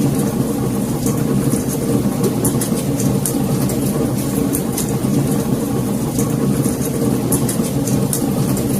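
Wood fire in a fireplace crackling, with many small sharp pops scattered irregularly over a steady low rumble of the flames.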